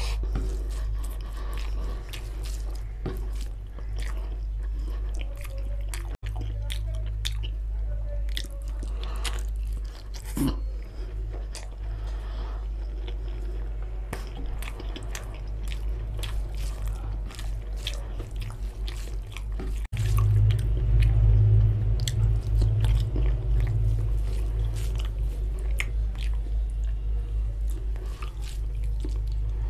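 Close-miked eating of rice and curry: chewing and biting with wet mouth sounds and many short clicks, over a steady low hum that gets louder about two-thirds of the way through. The sound drops out briefly twice.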